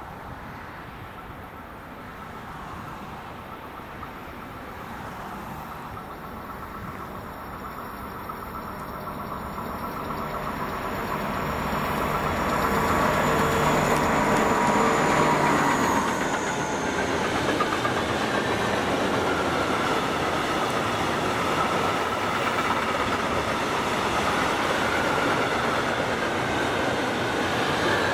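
A train approaching and passing on the rails. The sound builds over about the first dozen seconds, a high whine drops in pitch about sixteen seconds in, and the rolling of the train stays loud after that.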